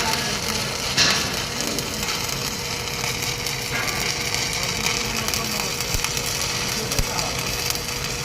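Electric arc welding: the arc crackles steadily, with a sharp crack at the start and another about a second in. A faint steady hum runs underneath.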